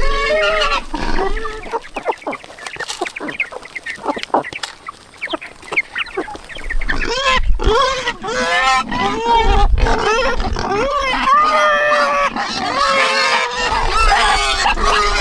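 Domestic fowl, chickens or geese, calling repeatedly for the first second and again through most of the second half, with a run of sharp taps and knocks in the quieter stretch between.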